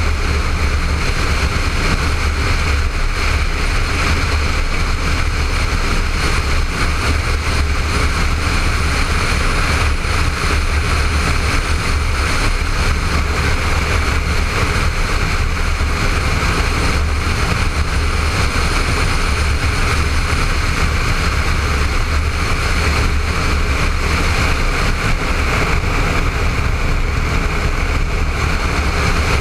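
Honda ST1300 motorcycle at riding speed: steady wind rush buffeting the helmet-mounted camera, with the engine running underneath, holding even throughout.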